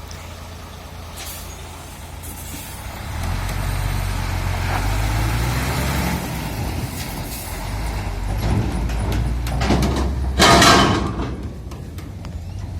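Heavy diesel vehicle engine running, rising in level about three seconds in and holding steady, during scrap steel loading. A loud burst of noise lasting about half a second comes a little over ten seconds in.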